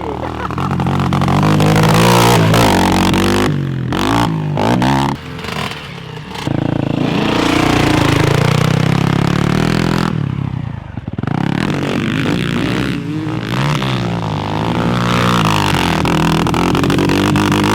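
Dirt bike engine revving hard on a track, its pitch climbing and dropping again and again as the throttle is worked through the gears. The throttle closes briefly twice.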